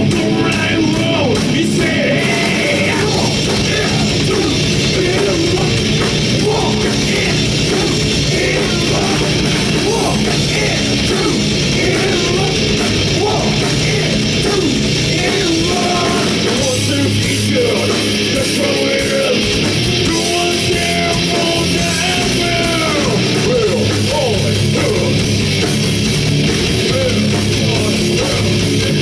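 A rock band playing a loud, heavy song live, with a dense full-band sound that never lets up.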